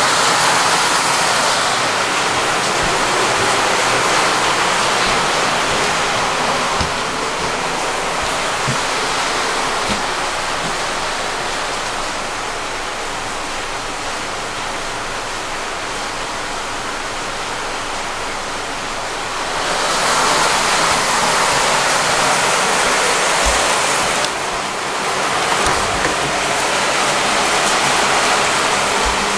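Heavy typhoon rain pouring in a steady rush, swelling louder for a few seconds about two-thirds of the way through.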